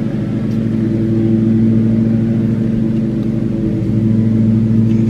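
An engine running steadily at an even speed, a constant hum.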